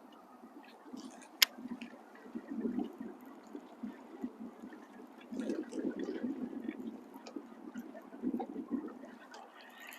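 Water gurgling and sloshing in low swells that come and go every couple of seconds, with one sharp click about a second and a half in.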